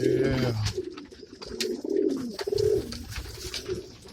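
Domestic pigeons cooing, several low wavering coos overlapping one after another, with scattered light clicks.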